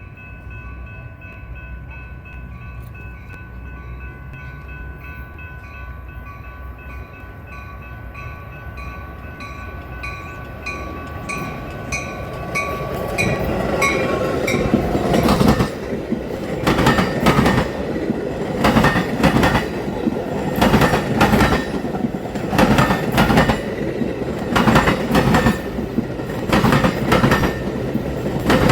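Metra push-pull commuter train, cab car leading with an F40PH diesel locomotive at the rear, approaching and passing. The first dozen seconds hold faint, steady ringing tones. The train grows louder, and from about fifteen seconds in its wheels clatter rhythmically over the rail joints and diamond crossing.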